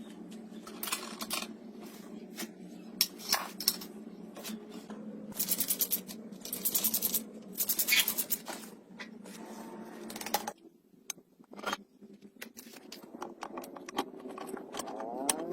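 Hand-tool work on metal: clicks, scrapes and several short runs of rapid ratchet-like clicking over a steady low hum, which stops about ten and a half seconds in.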